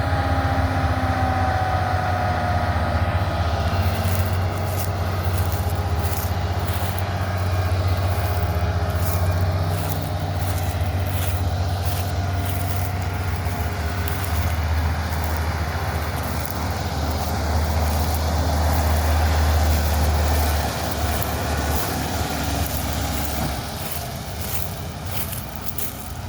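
Large diesel farm machinery running with a steady low drone that drops away after about twenty seconds as the machine moves off, with short high crackles over it.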